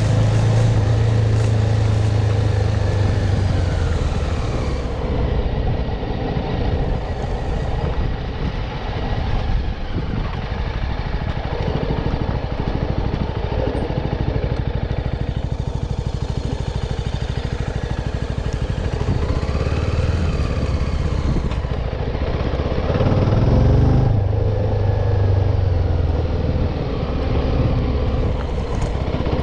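CFMoto 250NK single-cylinder engine under way: it winds down in the first few seconds, runs on at low revs, then picks up again about two-thirds of the way through as the bike accelerates.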